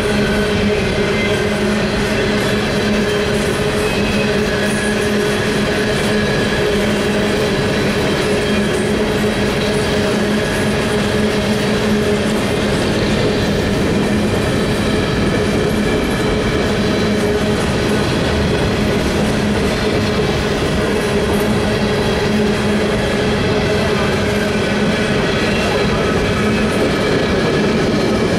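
Steel coal hopper cars of a CSX freight train rolling past at a steady speed: continuous rumble and clatter of wheels on rail, with a steady ringing tone running through it.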